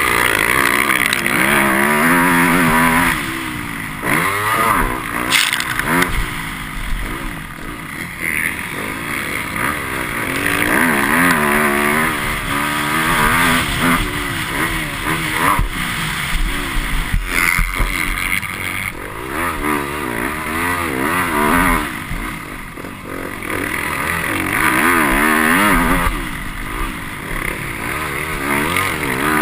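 Motocross bike engine heard from onboard, revving up and falling back over and over as it accelerates out of turns and shifts gear.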